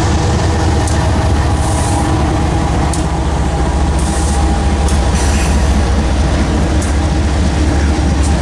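Freight train with diesel locomotives passing close by: a loud, steady low engine drone over the rumble of the moving train, with a few sharp clicks scattered through it.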